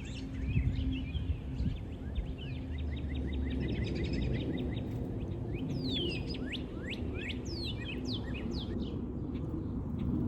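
Small wild birds calling: a rapid run of short, even chirps starting about a second in, then several quick downward-sweeping whistles midway, over a steady low background rumble.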